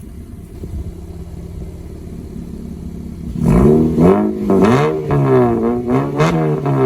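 Acura TLX car engine idling through an exhaust with its cutouts open, then revved several times in quick blips about halfway in, the pitch rising and falling with each rev.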